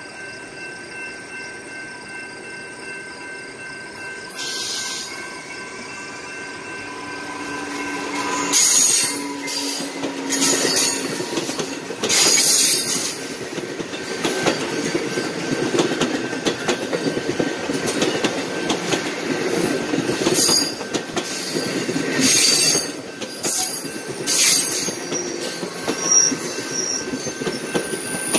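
Commuter train approaching and passing close by: wheels running and clacking on the rails, growing louder about a third of the way in. Short high-pitched wheel screeches come every few seconds as the coaches roll past.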